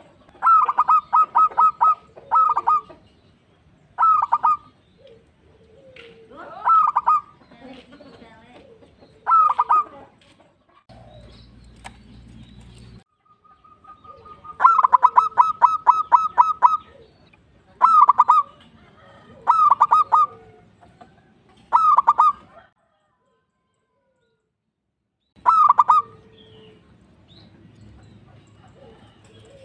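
Zebra dove (perkutut) singing: repeated bursts of quick, staccato cooing notes, mostly short phrases, with one long run of rapid notes about halfway through and a pause of a few seconds near the end.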